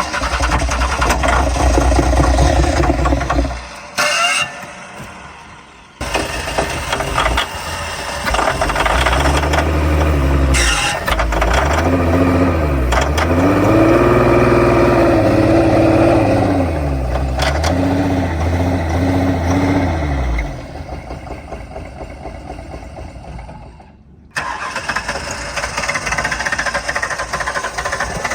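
Ford Taurus V6 engine running with dish soap in its crankcase instead of oil, revved up and down several times in the middle, in edited pieces that cut in and out abruptly.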